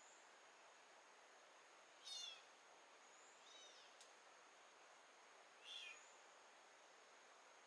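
An animal calls three times in short, high, falling cries, over a faint steady high whine and background hiss.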